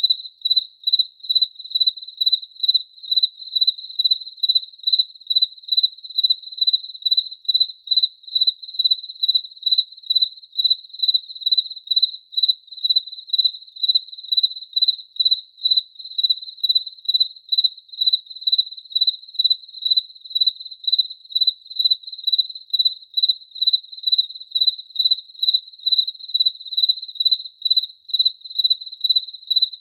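A cricket chirping in a steady, even rhythm, about two high-pitched chirps a second.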